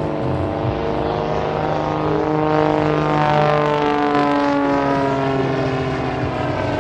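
Aerobatic propeller plane's engine and propeller drone as it flies by, swelling slightly to a peak about three and a half seconds in and easing after.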